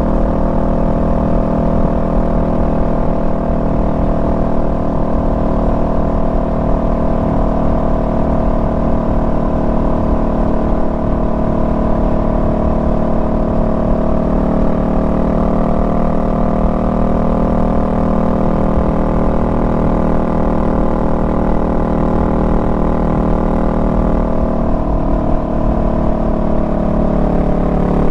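Honda Rebel 500's parallel-twin engine running at a steady cruise under the rider. Its pitch rises slightly about halfway through and falls near the end as the bike slows.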